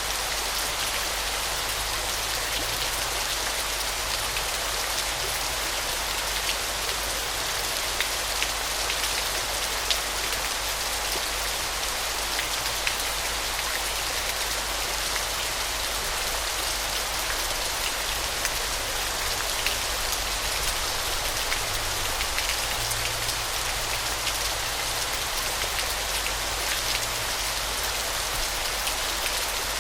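Waterfall: a steady hiss of falling water, full of fine splashing ticks much like heavy rain.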